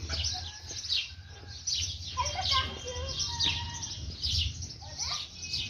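A flock of small birds chirping over one another: many short, quick falling chirps, several a second, with a steady low hum underneath.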